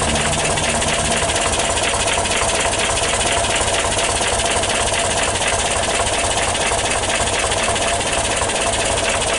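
Air-cooled flat-four engine of a 1977 Volkswagen T2 camper van idling steadily with an even pulse, running well after a cold start.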